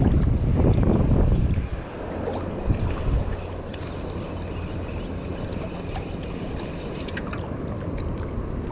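Wind rumbling on the microphone, heavy for the first couple of seconds, then steadier, over water lapping and sloshing around a wading angler.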